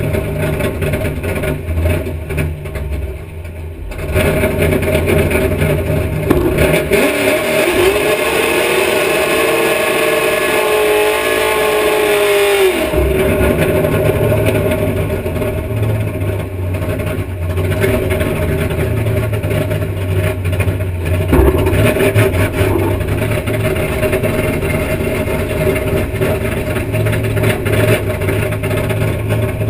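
Naturally aspirated drag-racing Ford Mustang engine idling low and rough, then held at high revs for about six seconds in a burnout with the rear slick spinning, cut off sharply. It then settles back to a low idle, with a brief blip of the throttle, as the car rolls toward the line.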